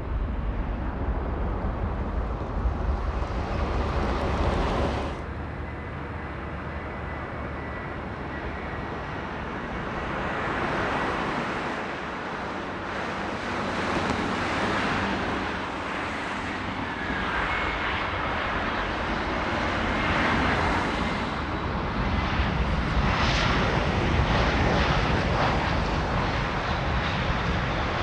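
Jet airliner engines running: a loud, broad rushing noise that swells and eases several times, with a faint thin whine above it.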